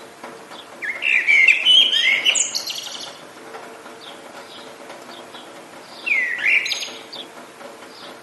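A songbird singing two loud, quickly warbled phrases, the first about a second in and lasting about two seconds, the second shorter near the end, with fainter chirps from other birds around them. Under it runs a steady hiss of rain.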